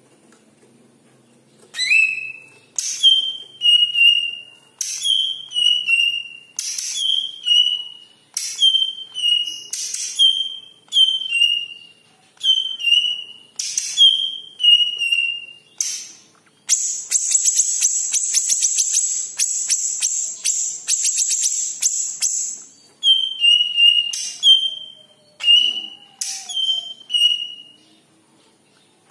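Cucak ijo (leafbird) singing: loud, sharp whistled notes that drop in pitch, given in pairs about once a second. Near the middle they break into a fast harsh rattling chatter for about six seconds, then the whistled pairs return.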